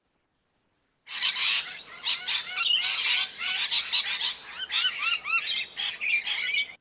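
A flock of budgerigars (small parrots) chattering together: many overlapping chirps and short rising whistles at once, starting about a second in and cutting off suddenly at the end.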